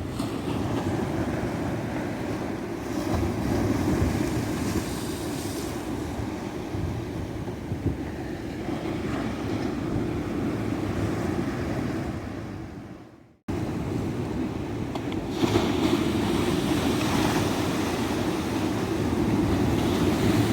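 Ocean surf washing steadily onto a beach, waves breaking in a continuous wash. About two thirds of the way in, the sound fades out quickly and then cuts back in abruptly, an edit in the recording.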